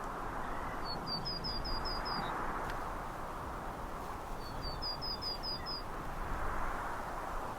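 Steady wind rushing, with a small songbird twice singing a quick run of six or seven repeated high notes, about a second in and again past the middle.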